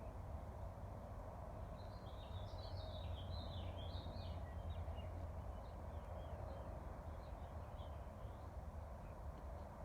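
A songbird sings a quick, jumbled run of high chirps about two seconds in, followed by fainter scattered chirps. Under it runs a steady low rumble of breeze.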